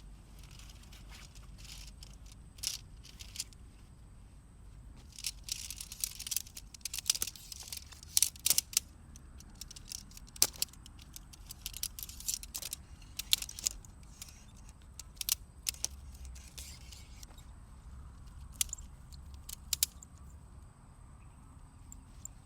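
Camping gear being handled: irregular light clicks, clinks and rustles, busiest from about five to fourteen seconds in, then sparser.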